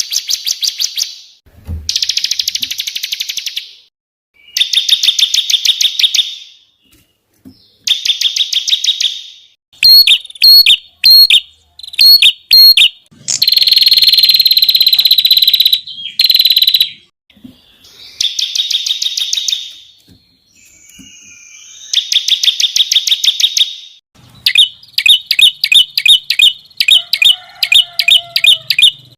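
Recorded songbird song of the rapid-fire 'tembakan' kind used to tutor contest birds: loud, high bursts of very fast repeated notes, each lasting a second or two with short pauses between. Now and then come runs of separate sharp, clipped notes.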